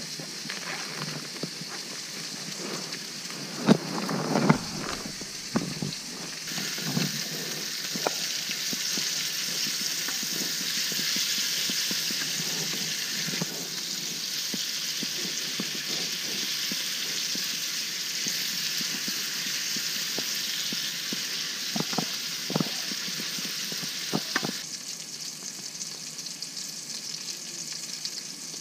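Bacon and sausage links sizzling in a small frying pan on a portable propane stove: a steady hiss that grows louder a few seconds in and eases near the end. A few clinks and scrapes of a spatula against the pan come early and again near the end.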